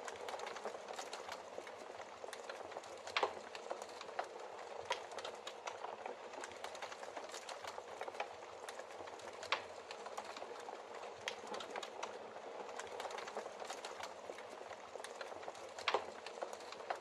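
Logs burning in a fireplace: a steady hiss of flame with constant small crackles. Louder pops come about three seconds in, near the middle and near the end.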